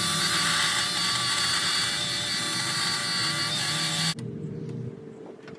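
Dremel rotary tool with a cutting wheel running at full speed and cutting into a seized exhaust-manifold nut, a steady high-pitched whine with a harsh grinding hiss. It stops suddenly about four seconds in.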